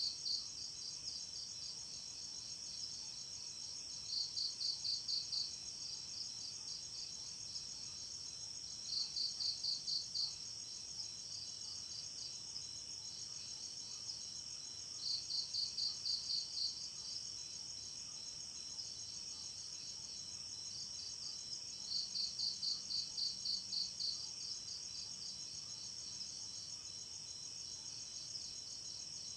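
Night insect chorus of crickets: a steady high-pitched trilling, with one louder insect call cutting in about every six seconds as a quick run of about eight chirps.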